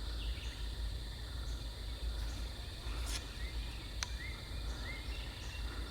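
Steady, high-pitched insect chorus from crickets or similar insects, with a single sharp click about four seconds in. A few short rising bird chirps follow the click.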